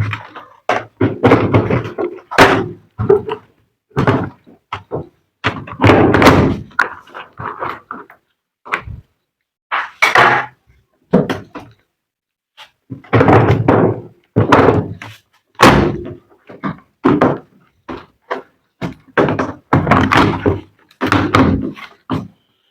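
Irregular thunks, knocks and clatter of a top-load washing machine's panels and parts being handled and pried apart during disassembly, with short bursts of rattling between single sharp knocks.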